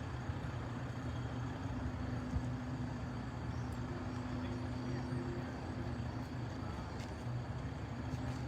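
Heavy vehicle engine running steadily, a low drone with a faint held hum, with traffic noise around it.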